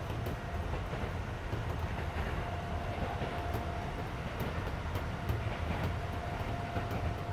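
Interior running sound of a Keisei 3400 series electric train at speed: a steady low rumble of wheels on rail, a faint thin whine that fades in and out, and light clicks from the track, with the car's air conditioning running underneath.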